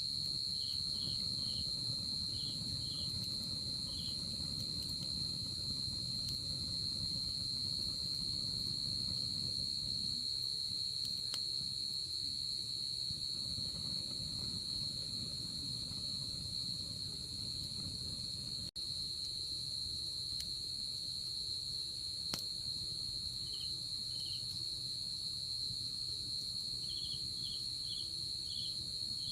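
Night insects: one unbroken high-pitched trill, joined near the start and again near the end by short repeated chirps from another insect. Under them is the low hiss of a campfire with a few faint pops. The sound cuts out for an instant about two-thirds of the way through.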